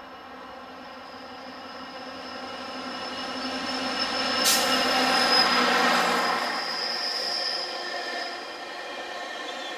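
GO Transit MP40 diesel locomotive running past close by, growing louder to a peak about five seconds in, then the bilevel passenger coaches rolling by as the engine's hum drops away. A steady high wheel squeal runs through, with a sharp click about four and a half seconds in.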